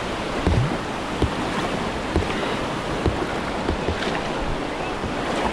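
Rushing whitewater around a kayak, a steady wash of moving water, with a handful of short low thumps at uneven intervals.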